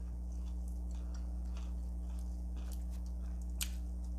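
Close-up chewing of food, with small soft clicks and crunches and one sharper click about three and a half seconds in, over a steady low electrical hum.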